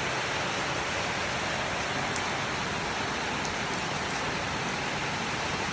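Steady heavy rain falling and pattering on surfaces, an even hiss.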